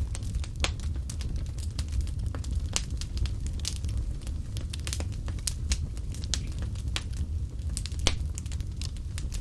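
Wood fire burning in a fireplace: a steady low rumble of the flames with irregular sharp crackles and pops, one louder pop about eight seconds in.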